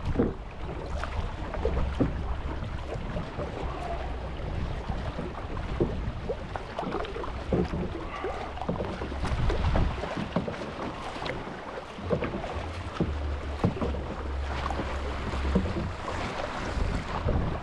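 Kayak being paddled: the paddle blades splash and drip in the water in irregular strokes, with wind rumbling on the microphone.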